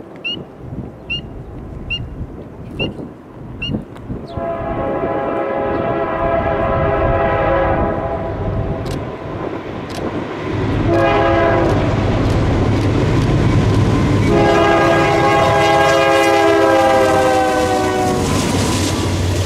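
A crossing bell dings about once a second. Then a locomotive horn sounds three blasts, long, short and long, as the train approaches with its engine rumbling underneath.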